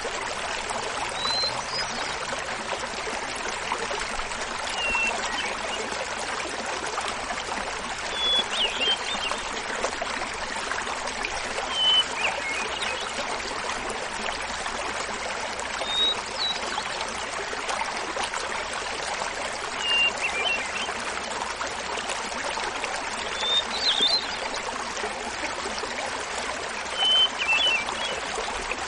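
Small mountain waterfall babbling steadily, with a hermit thrush singing over it. The thrush gives a short flute-like phrase every three to four seconds, each a clear opening note followed by a fluttering run, repeated at different pitches.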